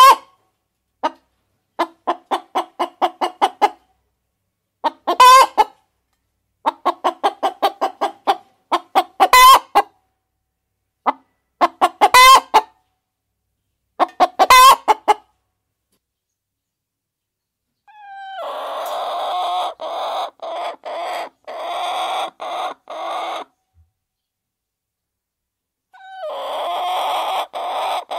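Hens clucking in quick pulsed runs, broken by a few louder, higher squawks and by stretches of complete silence. From about two-thirds of the way in, the calls turn into a harsher, noisier cackling.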